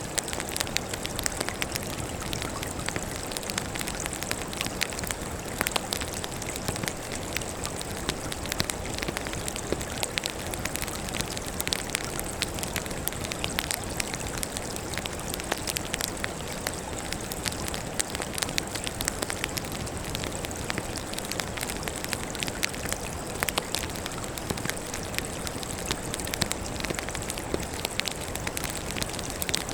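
Firewood burning in an open campfire, crackling continuously: a steady low hiss dotted with many sharp, irregular pops and snaps.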